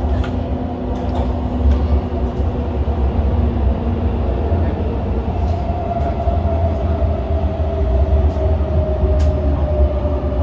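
MTR Tung Chung line CAF train heard from inside the carriage while running: a steady rumble of wheels and track. A low hum fades out partway through, and a motor whine appears in the second half, falling slightly in pitch.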